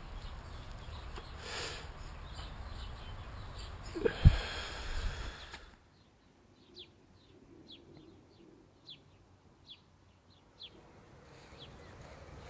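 Steady outdoor background noise with a brief loud thump about four seconds in. It then drops suddenly to quiet, and a bird chirps: about ten short, high notes at irregular intervals.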